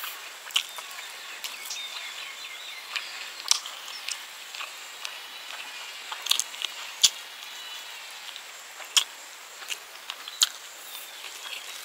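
Close-up mukbang eating sounds: chewing with sharp, wet mouth smacks and clicks, a dozen or so at irregular intervals, as rice and pork curry are eaten by hand.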